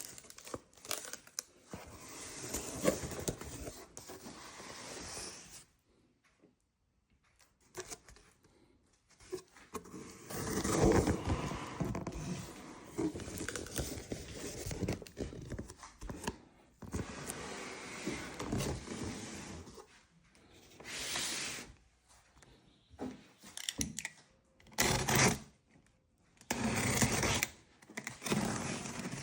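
Handling noises: irregular scraping, rustling and knocks as objects are moved about and set down, broken by short pauses.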